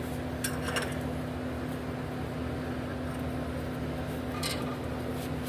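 Steady machine hum, like a fan or small motor running, with a few faint clicks about half a second in and again near the end.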